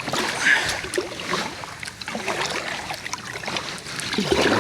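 Kayak hull scraping and bumping along the bottom of a very shallow river, with irregular scrapes and knocks.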